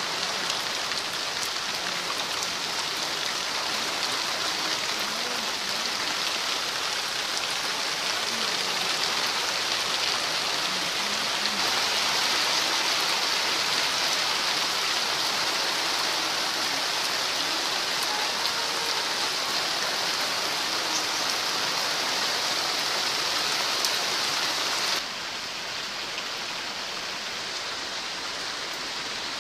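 Heavy rain falling steadily, a dense even hiss. About 25 seconds in it drops suddenly to a quieter, duller hiss.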